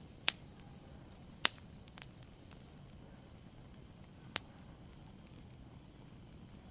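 Wood fire burning in a fireplace: a low steady hiss with a few sharp crackles and pops, the loudest about a second and a half in.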